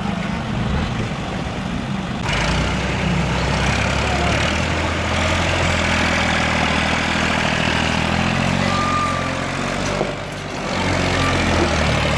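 Tractor engine running with a steady low drone. The sound changes abruptly about two seconds in and dips briefly near the end.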